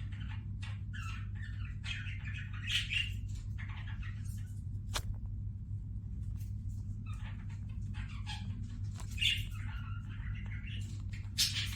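Pet Gouldian finches and budgerigars chirping and chattering in short bursts, with a brief lull in the middle and one sharp click about five seconds in. A steady low hum runs underneath.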